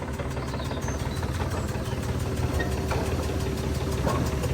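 A vehicle engine running steadily at low revs, with a couple of faint knocks in the second half.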